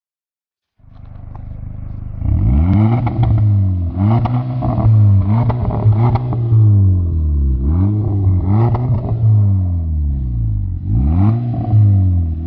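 VW Golf 6 R's turbocharged 2.0-litre four-cylinder through a stainless turbo-back exhaust with downpipe, 200-cell sport cat and 76.1 mm piping, revved in about five blips. Each blip rises in pitch and falls back, with sharp crackles in the exhaust. The sound starts about a second in and builds before the first rev.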